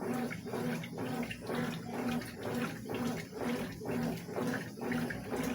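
Consul CWS 12 washing machine in its wash cycle, water and clothes sloshing back and forth in a steady rhythm of about two strokes a second.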